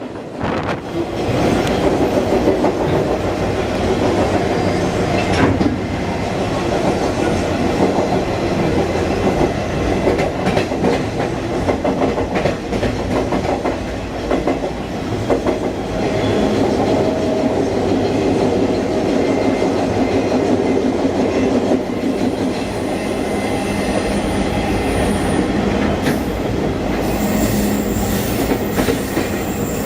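Canadian Pacific train running, heard from aboard: a steady rumble of wheels on the rails with clicking, and a high-pitched wheel squeal coming in during the last several seconds.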